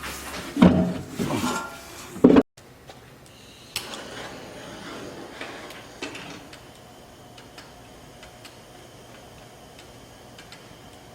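Clanks and scrapes of metal stove parts being handled, a few loud knocks in the first couple of seconds, some with a short ring. After an abrupt cut, only faint scattered clicks remain.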